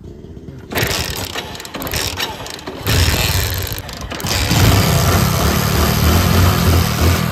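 Hero motorcycle's single-cylinder engine being cranked over, a mechanical clattering that grows louder about three seconds in and settles into a low, evenly repeating pulse. It is being turned over to throw a spark at the plug into a bundle of dry grass, to light a fire without matches.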